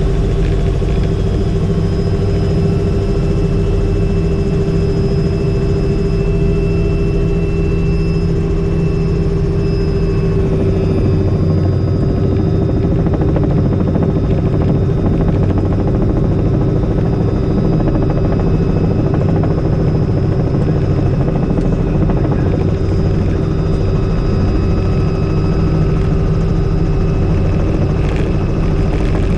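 Helicopter rotor and engine running steadily, a continuous even noise with a few steady tones held over it.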